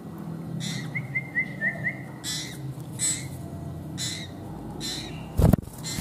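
Young common iora calling in short chirps, roughly one a second, with a quick run of five short high notes about a second in. A loud thump near the end is the loudest sound.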